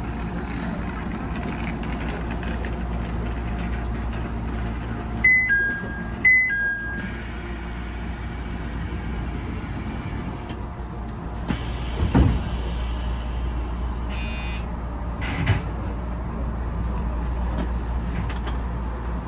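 Steady running noise of a JR HB-E210 hybrid train. A two-note electronic chime sounds twice about five seconds in, and a falling whistle is followed by a clunk around twelve seconds in.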